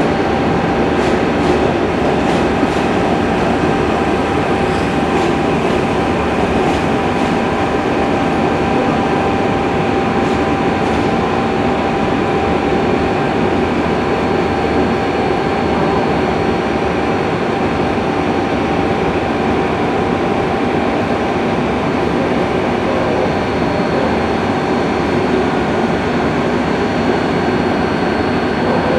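Train running on rails: a steady rumble with a constant whine held throughout, and rail-joint clicks during the first ten seconds or so.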